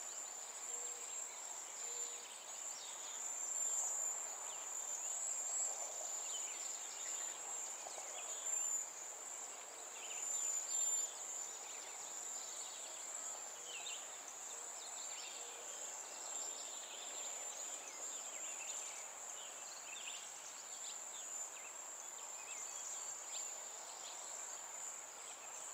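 Insects trilling in a steady high-pitched drone, with short scattered bird chirps over it.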